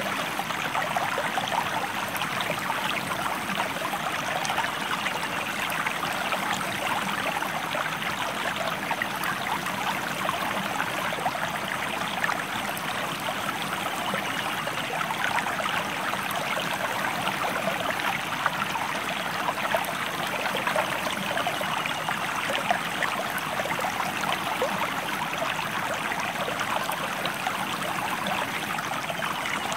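River water flowing: a steady, dense rushing with many fine splashes.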